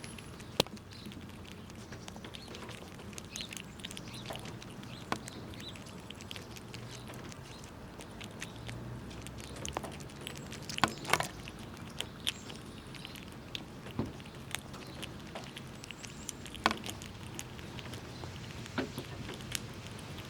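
Squirrels gnawing and cracking nuts, making irregular sharp cracks and clicks, with a loud cluster of cracks about halfway through and another loud crack near the end.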